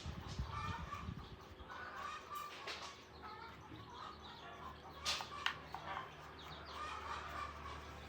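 Chickens clucking at intervals, with a few sharp clicks in between.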